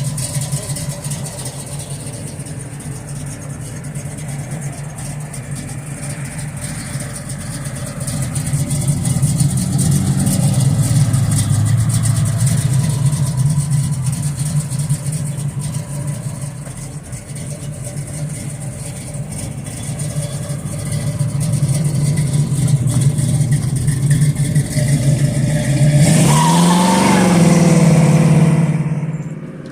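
A car engine running steadily, swelling louder at times, with a quick rev that rises and falls near the end.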